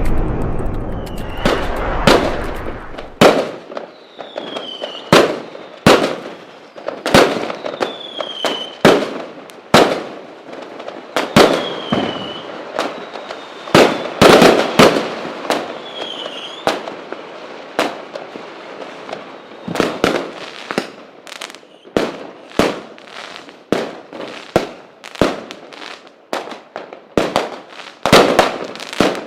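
A fireworks display: a rapid, irregular barrage of sharp aerial shell bangs, often in quick clusters, with a few short falling whistles between them.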